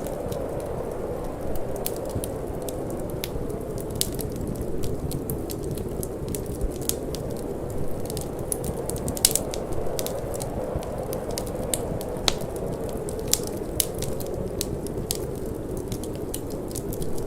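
Wood fire in a fireplace crackling, with irregular sharp pops and snaps, over a steady low rush of wind.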